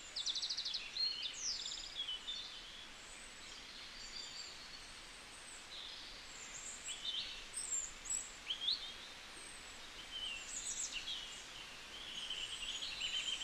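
Small songbirds chirping, with short rapid trills in the first second or two and scattered high chirps after, over a faint steady hiss.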